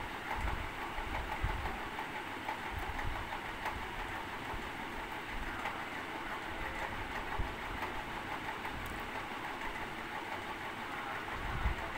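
Aloo tikki (potato patties) shallow-frying in oil on a nonstick tawa: a steady sizzle with fine crackling, over an uneven low rumble.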